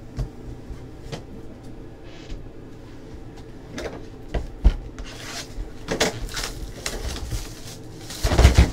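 Trading cards and foil packs being handled: scattered light knocks and clicks of cards flipped and set down, with short rustles of pack wrappers, and a louder clatter near the end.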